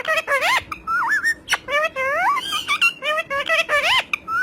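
Talking parrot chattering and whistling: a quick run of short notes that swoop up and down in pitch, several a second, with a speech-like quality.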